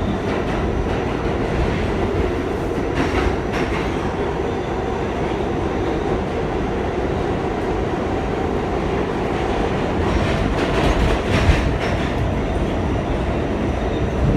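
R46 subway train running at speed, heard from on board: a steady rumble of wheels and running gear on the track, with a few louder clatters as the wheels cross rail joints.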